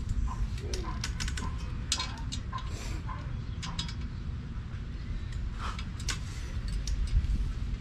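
Irregular sharp metallic clicks and clinks from hand-fitting brake-bracket bolts, washers and locking nuts on a rear axle flange, over a steady low shop hum.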